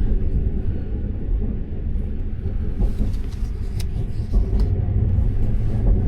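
Train running on the rails, heard from inside the carriage: a steady low rumble with a few sharp clicks about three to four seconds in.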